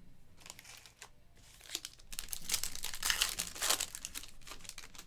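Foil trading-card pack wrapper crinkling and tearing as it is ripped open, a busy crackle that swells in the middle and fades near the end.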